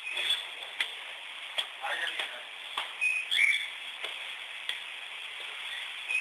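A bird chirps briefly twice about three seconds in, with a steady hiss and scattered short clicks and taps behind it.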